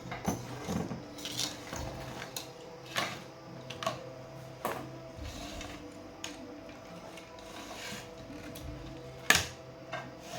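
Irregular small clicks and knocks of repair work on a bench, with one sharper knock near the end, over a faint steady hum.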